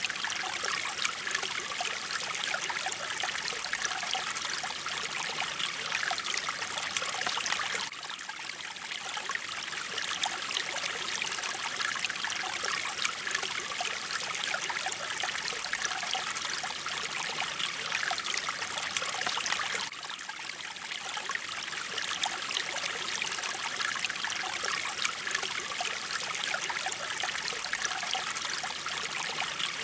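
Mountain stream flowing and trickling over rocks, a steady continuous rush of water with small dips in loudness about eight seconds in and again about twenty seconds in.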